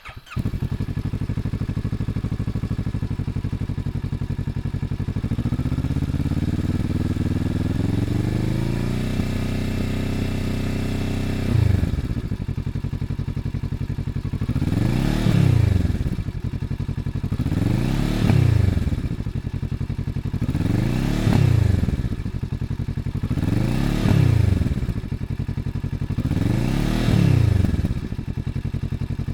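Kawasaki Z650RS parallel-twin engine heard through its exhaust, idling. It is revved up smoothly and held at higher rpm for several seconds, then drops back to idle. Then come five quick throttle blips, about three seconds apart, each rising and falling back to idle.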